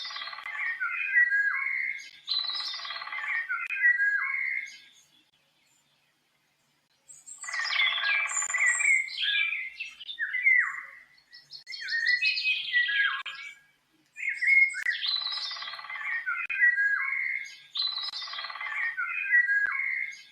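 A songbird singing in a series of complex, warbling phrases, each about two to three seconds long, with a silent gap of about two seconds near the start.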